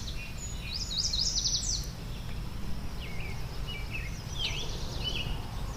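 Small songbirds chirping and singing in short repeated phrases, over a steady low rumble.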